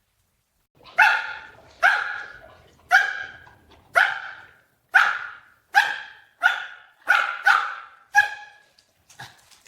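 A dog barking about ten times, roughly once a second at first and quicker near the end, each bark sharp and quickly fading.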